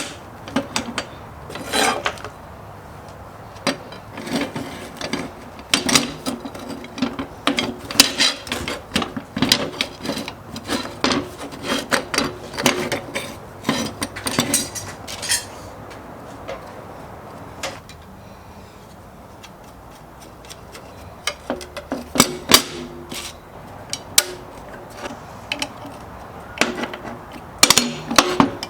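Hand work on a metal tool: irregular rubbing and scraping strokes with many sharp knocks and clicks.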